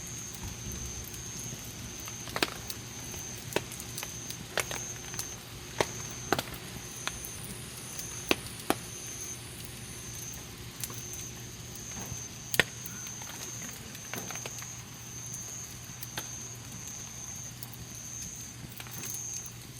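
Wood campfire burning with a steady low crackle and sharp pops every second or two, the loudest about two-thirds of the way through. A faint high-pitched pulsing tone repeats about once a second in the background.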